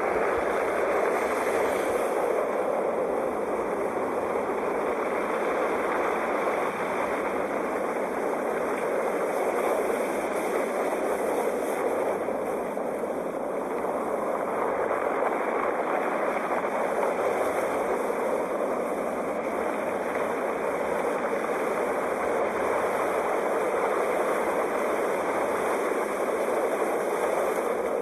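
Sea waves washing onto a shore: a continuous, steady rush of surf that rises and falls slightly in loudness.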